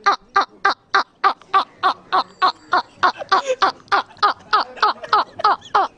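A bird calling over and over in quick, even succession, about four short calls a second, each falling in pitch.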